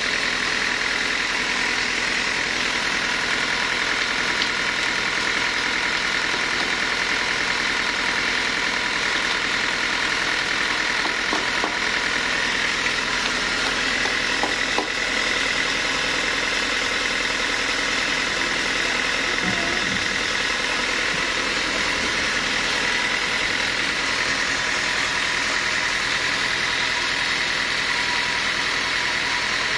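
Sawmill machinery running steadily, an engine-driven drone with a steady high whine over it.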